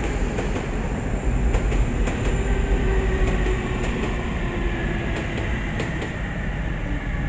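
Electric train running on the rails: a steady rumble with scattered sharp clicks from the wheels and a faint, slowly shifting tone.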